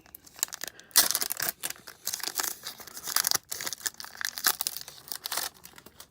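Foil Pokémon booster pack wrapper being torn open and crinkled in the hands: a dense crackling that starts about a second in and dies away near the end.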